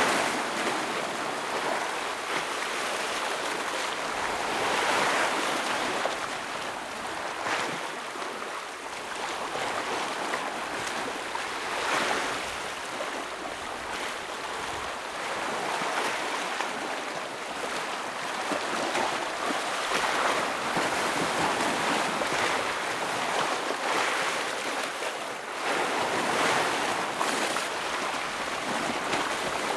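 Ocean waves breaking on rocks and washing back, a continuous surf wash with swells every few seconds.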